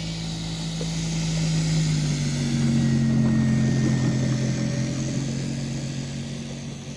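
Electric motor and propeller of a large RC scale plane taxiing, a steady hum that grows louder, drops in pitch about two seconds in, and fades toward the end.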